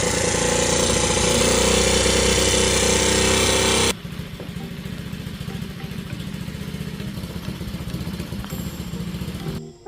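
A 2004 Pantera 50cc mini bike's small four-stroke engine running loudly, then about four seconds in dropping abruptly to a quieter, steady idle. The valvetrain is quiet, with no lifter or rocker-arm tick to be heard.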